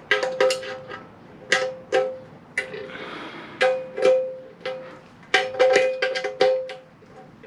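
Steel parts of a static motorcycle wheel balancer knocking together as they are handled: a dozen or more sharp metallic clanks in uneven clusters, each ringing briefly at the same pitch.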